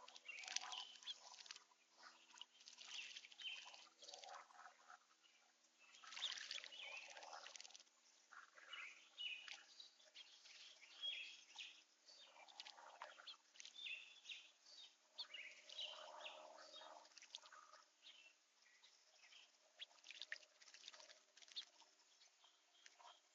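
Small birds chirping and calling faintly in short, irregular bursts.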